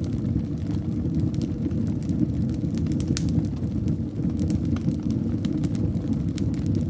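Fire burning in a fireplace: a steady low rumble of flames with scattered sharp crackles and pops throughout.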